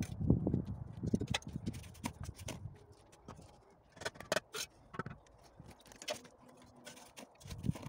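Irregular light knocks, clicks and scrapes, busiest in the first two seconds and again around four seconds in.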